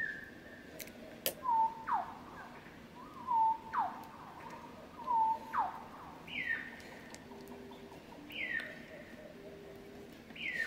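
A bird calling: a run of short whistled notes, several sliding sharply down in pitch, repeated every second or two. Higher notes come in the second half.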